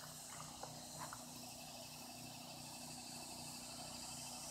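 Faint, steady outdoor insect chorus, a rapid even trill with a low hum beneath it. A few brief chirps come in the first second.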